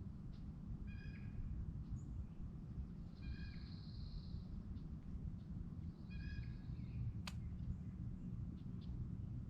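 Three short, nasal bird calls, each with several stacked tones, over a steady low rumble of outdoor ambience by a lake. One sharp click comes about seven seconds in.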